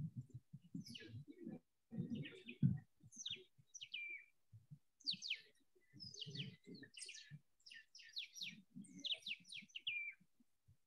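Small birds chirping: many quick high chirps, several of them falling in pitch and coming in short rapid runs, over irregular low muffled noises.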